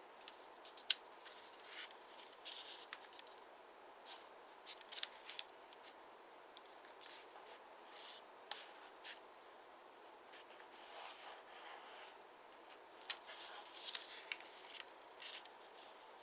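Square origami paper being folded and creased by hand: quiet, scattered rustles of the sheet with short sharp clicks as folds are pressed down.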